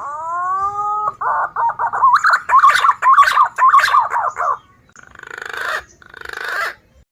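Green pigeon (punai) calls played as a bird lure: a rising whistled note, then a quick run of warbling, wavering whistles, then two short raspy bursts.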